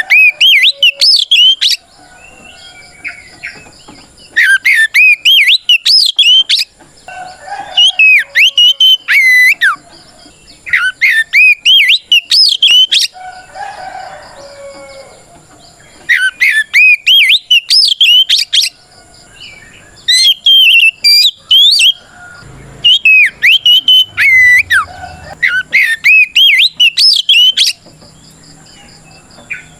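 Oriental magpie-robin singing its loud full challenge song, the 'ngeplong' song that calls out a rival. It comes in about nine fast phrases of rising and falling whistles, each a couple of seconds long, with short pauses between.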